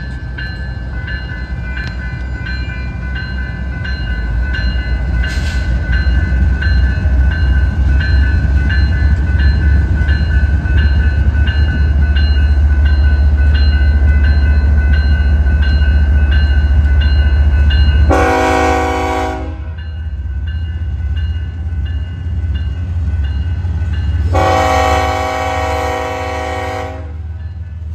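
BNSF diesel freight locomotives, an SD70ACE among them, rolling past with a heavy low rumble that builds over the first several seconds. The locomotive's air horn sounds twice, a short blast about 18 seconds in and a longer one about 24 seconds in.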